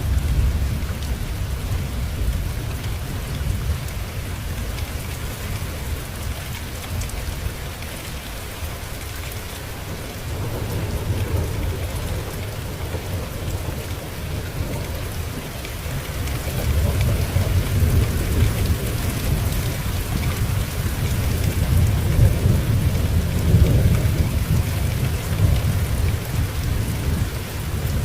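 Steady rain falling, with low rolling thunder that swells about a third of the way in and again, louder, through the second half.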